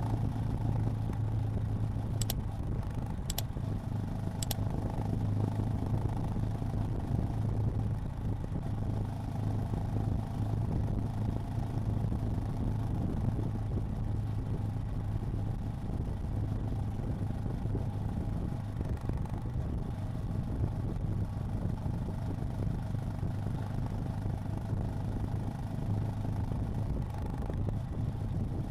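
Honda GB350's air-cooled single-cylinder engine running at a steady cruise with an even exhaust beat. About two seconds in come three light ticks, roughly a second apart.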